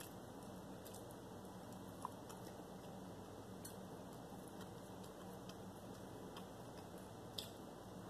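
Faint chewing of coffee-soaked banana bread, with a few small mouth clicks over a low steady hum.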